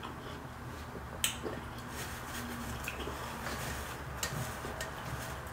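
Quiet close-miked eating: a person chewing food, with a few short, sharp mouth clicks, the clearest about a second in, over a low steady room hum.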